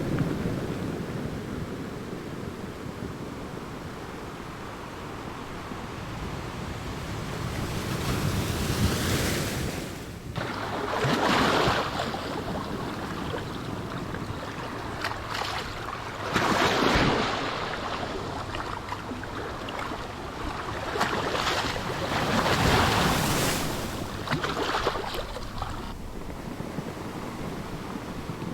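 Ocean waves breaking and washing up a shore, a steady hiss of surf with a louder surge every few seconds that swells and fades away.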